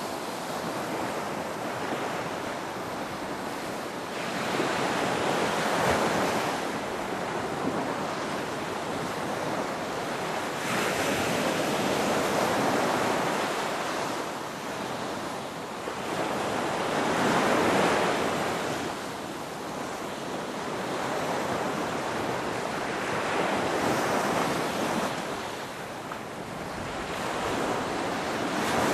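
Ocean waves washing ashore, the surf swelling and falling away every four to six seconds.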